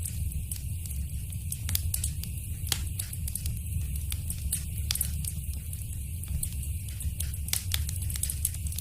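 Fireplace fire crackling: many small, sharp, irregular pops over a steady low rumble of the flames.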